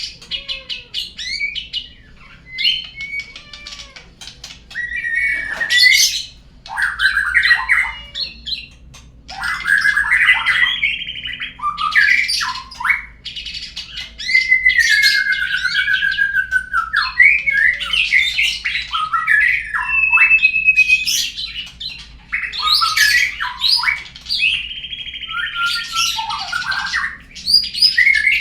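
Murai songbird singing a long, varied song of clear whistles, sliding notes and harsh squawky phrases with short pauses between them. It is a lure song meant to prompt a murai to sing.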